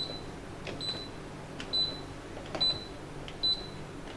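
Whirlpool top-loading washing machine's control panel beeping as its keys are pressed one after another: a short, high beep with each press, about one a second, five times.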